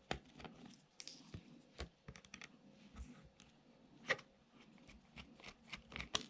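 Faint, irregular small clicks and taps of a precision screwdriver working tiny screws out of a small plastic electronic organiser.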